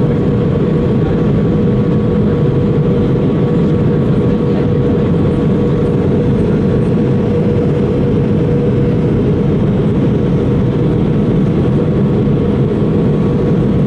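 Steady cabin noise aboard an Airbus A320 on approach: engine and airflow drone with a constant mid-pitched hum.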